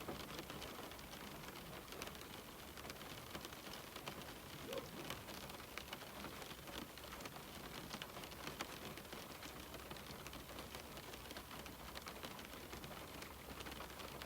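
Steady rain on a window: a constant hiss with many separate drops ticking against the glass.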